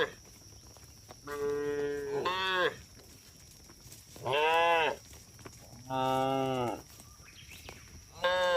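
Cattle mooing: about five separate calls with short pauses between them, some held at a steady pitch and others rising and falling.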